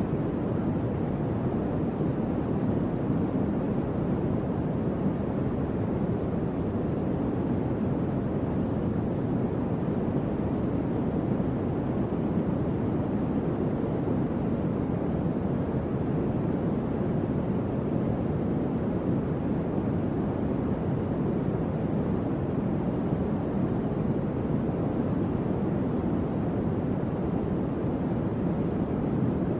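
Electric fan running steadily: a constant low, soft airflow whoosh with no changes.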